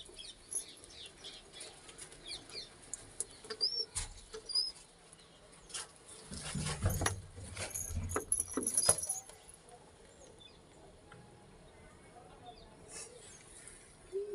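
Pigeon's wings flapping in a run of short clatters as it comes down to land, thickest from about six to nine seconds in, then quiet.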